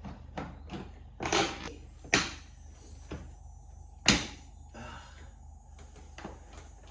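A few sharp knocks and clatters of hard objects being handled, the two loudest about two and four seconds in, with a short scraping rustle just before the first.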